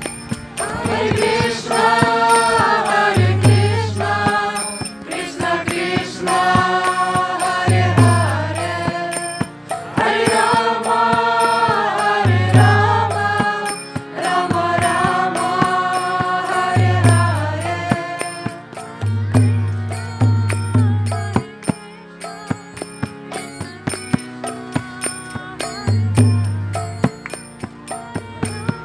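Devotional kirtan: voices chanting a mantra in a sung melody, over repeated low drum strokes and a steady clicking rhythm of small hand cymbals. The singing is strongest in the first two-thirds and quieter near the end.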